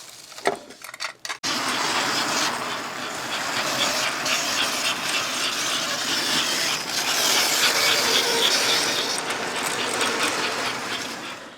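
Vintage American Flyer S gauge toy train running on its track, a steady electric-motor and wheel rattle with fine clicks that starts suddenly about a second and a half in, swells a little and fades near the end. A squeak in the running that the owners take as a sign something isn't right.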